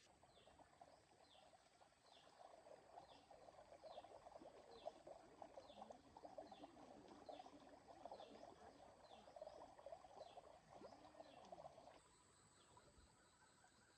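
Faint chorus of frogs, with a high falling chirp repeating a little under twice a second; the chorus stops abruptly about twelve seconds in.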